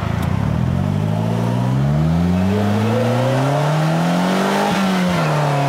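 Polaris Slingshot's GM 2.4-litre Ecotec four-cylinder engine accelerating, its revs climbing steadily for several seconds. The revs then fall back near the end at an upshift of the five-speed manual and hold steady.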